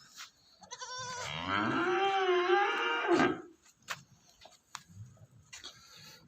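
A goat bleating: one long call, starting about a second in and lasting about two and a half seconds, its pitch rising then wavering. A few small clicks and knocks follow.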